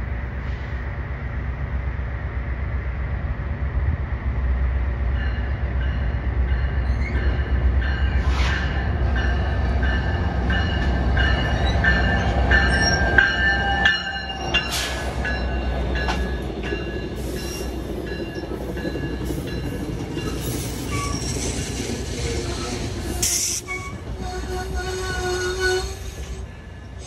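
NJ Transit PL42AC diesel locomotive and its passenger cars running past close by, with a steady low engine rumble. High squealing tones from the train start about five seconds in and come and go. The sound is loudest as the locomotive draws alongside, a little before halfway.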